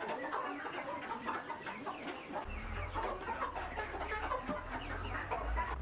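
A flock of chickens clucking, many short overlapping calls. A low rumble joins in about halfway through.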